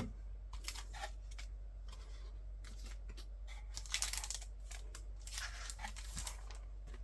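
Handling of unboxed paper, card and packaging: intermittent rustling and scraping in several short clusters, the loudest about four seconds in.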